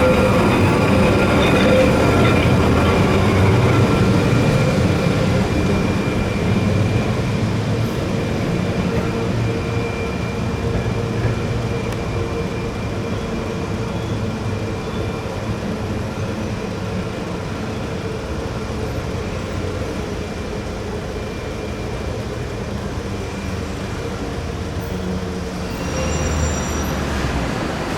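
Historic Trieste–Opicina tram running on its rails, with a faint steady whine over the rolling noise, slowly fading away. A lower rumble rises near the end.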